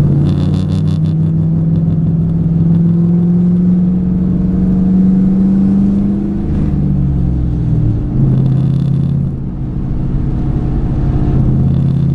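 2008 Ford Mustang GT's 4.6-litre three-valve V8 running while driving. Its pitch climbs slowly for about six seconds, drops a little past the middle, then holds steady. It runs smoothly with no misfire on a new set of MSD Blaster coil-on-plug coils.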